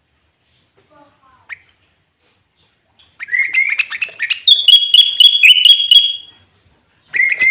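A sooty-headed bulbul (kutilang) singing a loud, rapid run of chattering notes about three seconds in, lasting some three seconds. A second phrase begins just before the end.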